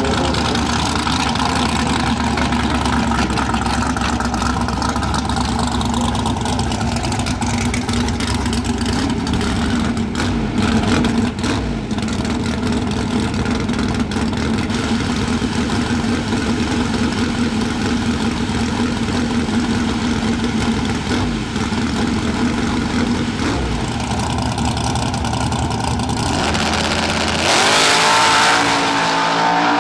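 Drag race car engine running loud and steady at a held speed; near the end it revs up, pitch rising.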